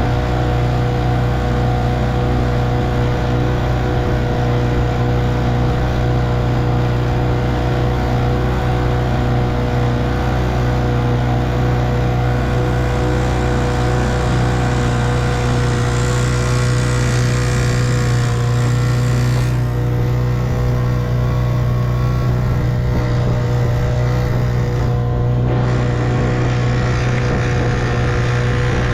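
A 1958 Evinrude 3 hp two-stroke outboard motor running steadily at an unchanging speed.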